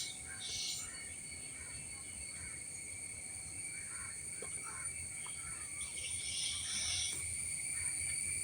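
Cicadas giving a steady, high-pitched shrill drone, with louder bursts of chirping about half a second in and again around six to seven seconds.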